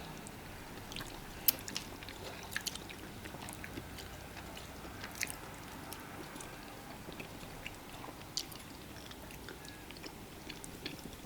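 Someone eating fufu and fish pepper soup: faint chewing with scattered soft mouth clicks and smacks.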